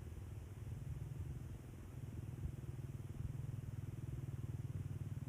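Battery-powered toy train running, its small electric motor and gears giving a steady, low, rapidly pulsing buzz.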